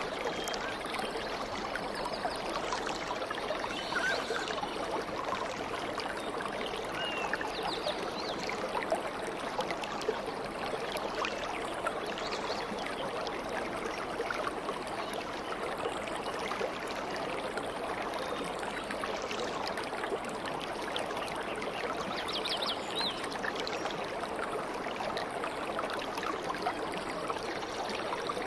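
Babbling stream of flowing water, steady throughout, with a few faint bird chirps a few seconds in and again past the middle.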